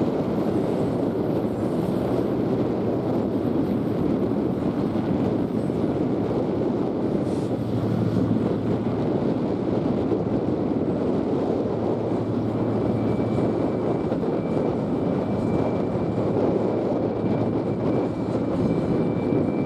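Diesel freight train running steadily: an even rumble of locomotives and loaded wagons rolling along the track, with a faint thin whine joining in during the second half.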